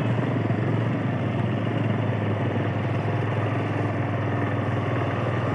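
TVS Apache 160's single-cylinder engine running steadily at low road speed, with a low, even hum.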